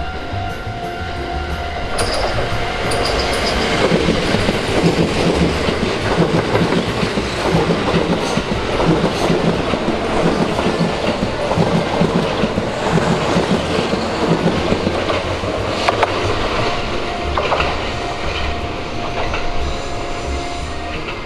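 Kintetsu limited express electric train passing at close range, its wheels clacking over the rail joints. The noise builds about two seconds in, stays loud through the middle and eases off near the end.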